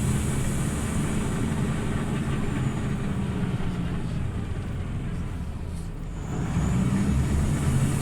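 Scania OmniLink CL94UB city bus engine running with a steady low hum, easing off around four to six seconds in and then picking up louder again.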